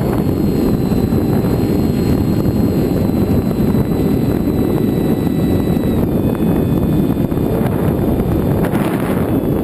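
Wind rushing and buffeting over the microphone of a camera carried aboard an FX-61 flying-wing model plane in flight, with a faint high whine from its electric motor and propeller that shifts pitch about six seconds in.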